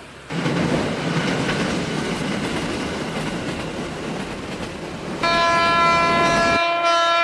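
KRL commuter electric train running with a loud rumble of wheels on the rails. About five seconds in, its horn sounds one long blast. The rumble cuts off suddenly shortly before the end while the horn holds.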